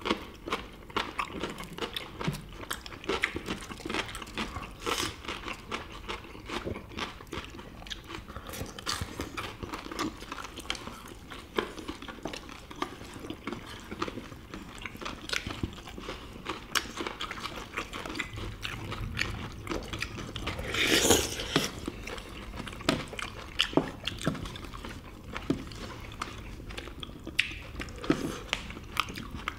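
People chewing and biting food close to the microphone, with crunching and frequent short clicks. One louder, longer noisy sound comes a little over two-thirds of the way through.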